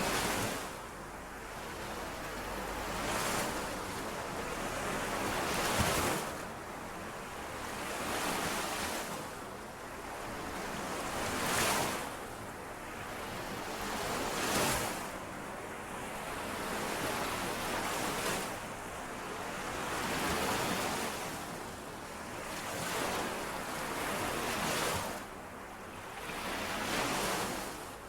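Small lake waves washing in and out on the shore, one swell every two to three seconds. Each swell rises to a hissing, splashy crest and then draws back.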